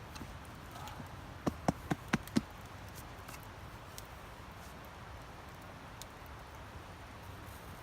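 Five short, sharp knocks in quick succession about a second and a half in, over a low steady background.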